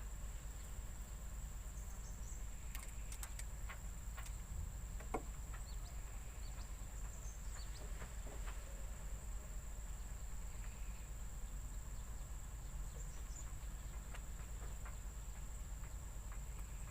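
Outdoor ambience dominated by insects droning on one steady high note, over a steady low rumble, with a few faint clicks scattered through.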